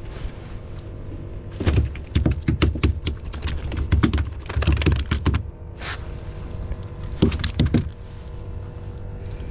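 A freshly caught flounder flopping and slapping against the boat: a fast, uneven run of slaps and knocks starting about two seconds in, then a shorter run later.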